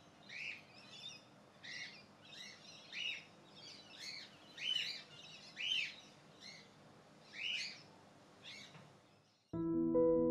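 Caged pet birds chirping in an aviary: short, separate calls about once a second. Piano music comes in near the end.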